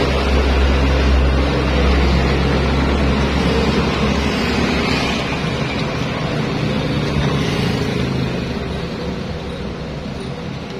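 Yamaha NMAX scooter engine running steadily at idle, with a low hum that eases slightly after a few seconds.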